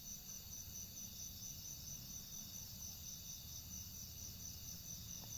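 Crickets trilling steadily in a continuous high-pitched chorus, over a faint low background hum.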